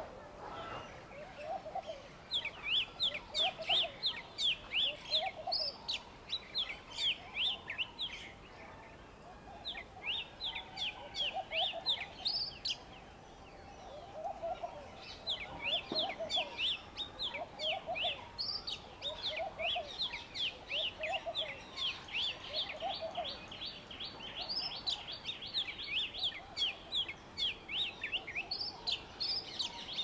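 Wild birds calling: runs of rapid, high chirps lasting several seconds at a time, with pauses between, over a lower call repeated about every second and a half.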